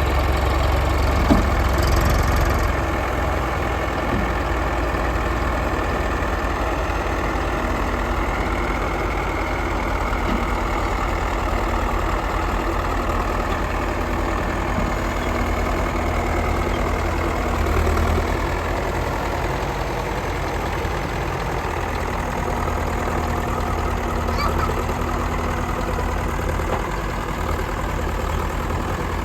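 Diesel engine of heavy machinery running steadily near idle, with a few brief knocks.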